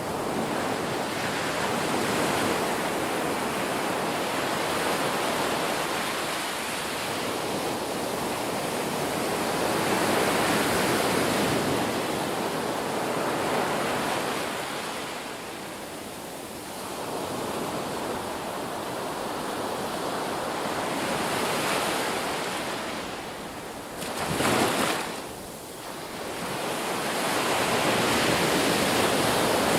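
Ocean surf: waves breaking and washing in, swelling and fading in slow surges every few seconds, with one short, sharper burst of splash about three-quarters of the way through.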